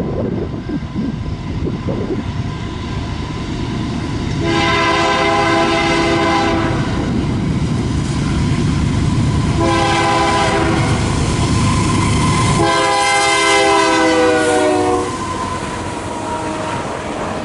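Locomotive air horn sounding three chord blasts, a long one about four seconds in, a shorter one near ten seconds and a long one that slides slightly down in pitch as the train passes. Under the horn, the train's rumble and wheels on the rails.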